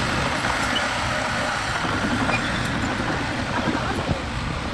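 Engine of a heavy construction vehicle running steadily.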